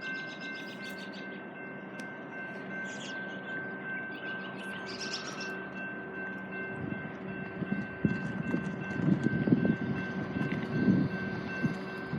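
Distant diesel locomotives of a BNSF light-engine move approaching, heard as a steady low drone with faint steady high tones. Birds chirp briefly in the first few seconds, and gusts of wind hit the microphone in the second half.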